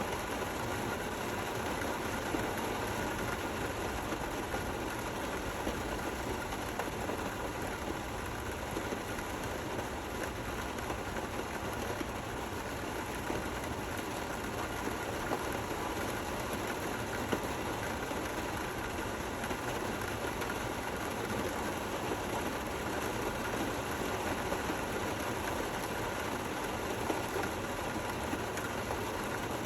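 Steady, gentle rain falling, an even hiss with faint patters of drops and no thunder.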